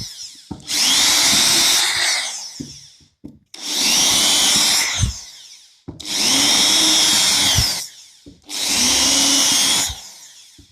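Electric drill boring holes through wooden floorboards, four runs in turn, the motor whine rising as each starts and falling as each ends. The holes are pre-drilled so the screws that will pull the squeaking boards down onto the joists don't split the boards.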